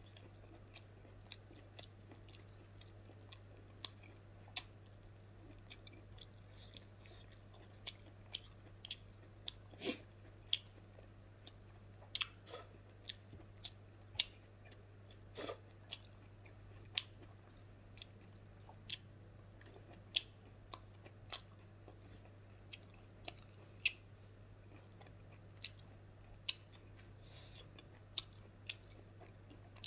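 A person chewing smoked pork and rice with the mouth close to the microphone: sharp mouth clicks and smacks at an uneven pace, about one or two a second. A steady low hum runs underneath.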